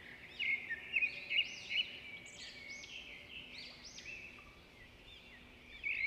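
Several small birds chirping and singing, with quick runs of short, repeated arching notes that overlap. The loudest runs come in the first two seconds and again near the end.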